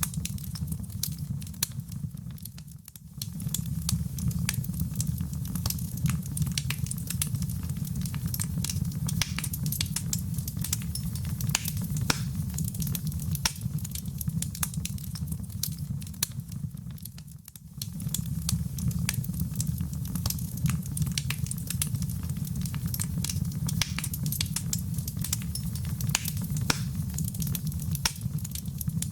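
Wood fire crackling, with many small irregular pops and snaps over a steady low rumble; the sound dips down briefly twice and comes straight back.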